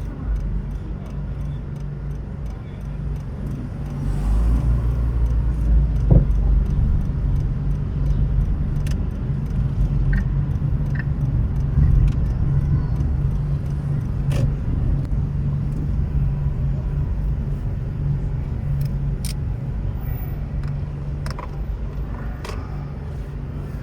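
Car driving on city roads: a steady engine and tyre rumble that grows louder about four seconds in, with a few short, sharp clicks over it.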